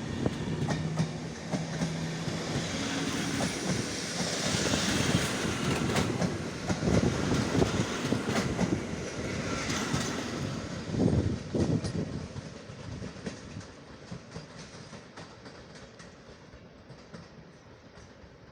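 Departing passenger train rolling past, its wheels clicking over rail joints amid a rumbling hiss, then fading away over the last several seconds as it pulls out.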